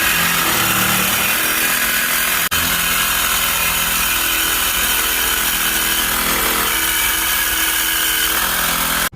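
Power tool cutting through the steel exhaust pipe to remove a muffler, running loud and steady. It cuts off abruptly near the end.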